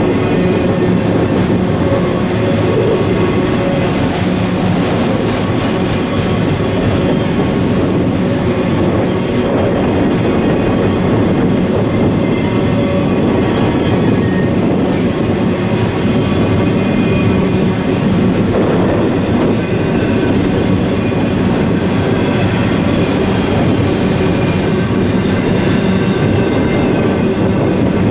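Long freight train of autorack cars rolling steadily past: loud, continuous rumble and clatter of steel wheels on the rails.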